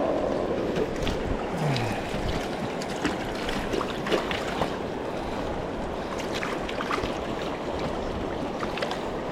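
Steady rush of river water, with small splashes and ticks scattered through it.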